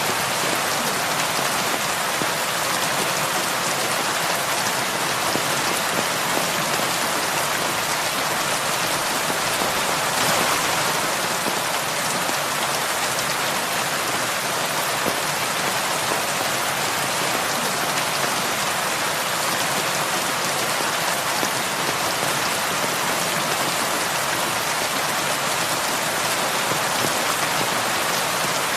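Heavy rain falling steadily on a roof, an even dense patter.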